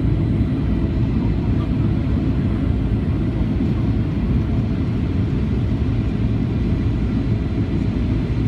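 Steady low rumble of a Boeing 737-800 in flight, heard from inside the passenger cabin: airflow and CFM56-7B engine noise, even throughout.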